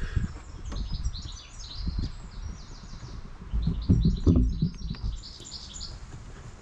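Small birds chirping in quick, repeated notes, over low rumbling on the microphone that is loudest about four seconds in.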